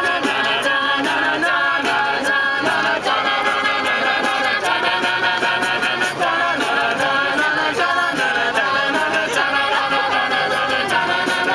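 An a cappella vocal group singing in close harmony, with a steady beat of sharp clicks running under the voices.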